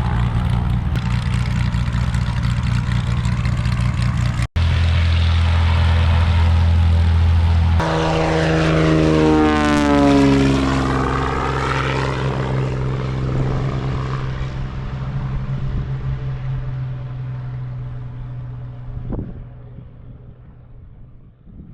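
Cessna light aircraft's propeller engine running steadily, then passing close by with its engine pitch dropping as it goes past, and fading away as it flies off.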